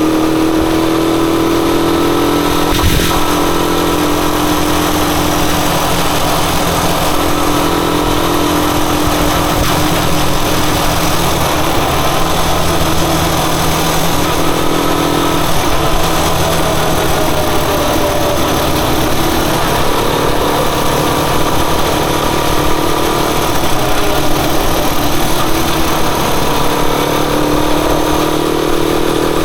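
Rusi Chariot 175 motorcycle engine running steadily while being ridden, its pitch rising and falling slightly.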